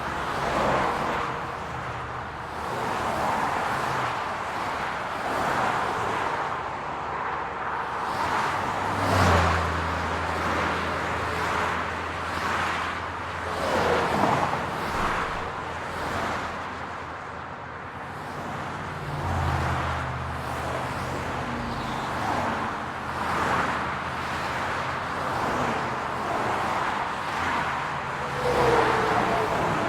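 City street traffic: cars passing one after another, each swelling and fading. A low engine hum comes in twice for a few seconds, about nine and nineteen seconds in.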